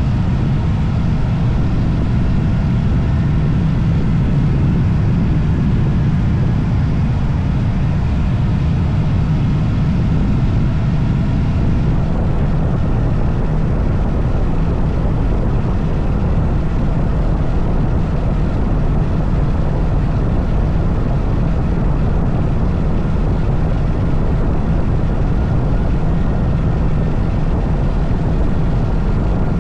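Yamaha MT-25 parallel-twin engine running steadily in fourth gear at just under 5,000 rpm on the move, under a steady rush of wind. The engine is hunting at this speed, which the rider wonders may come from swapping the 14-tooth front sprocket for a 15-tooth one.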